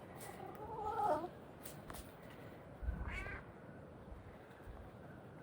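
Domestic cat meowing twice: a long, wavering call lasting about a second, then a shorter, higher one about three seconds in.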